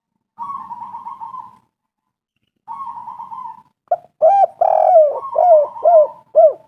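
Spotted dove cooing: two purring, rolling trills, then from about four seconds in a run of five or six short arching coos with a faint trill carrying on above them.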